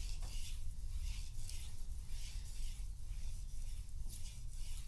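Steel knife blade stroked back and forth across a 3000-grit finishing whetstone, a soft scraping swish with each stroke, about two strokes a second: the finishing strokes that raise a fine burr along the edge.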